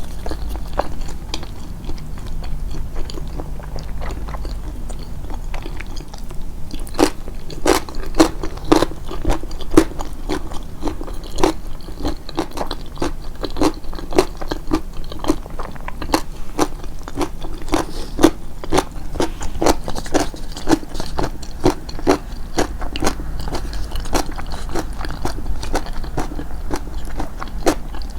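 Close-miked chewing of crisp food: softer chewing at first, then from about seven seconds in a steady run of sharp crunches, about two a second.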